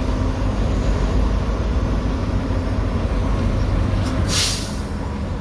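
Semi truck's diesel engine running steadily, with a short burst of air hiss from the air brake system a little over four seconds in.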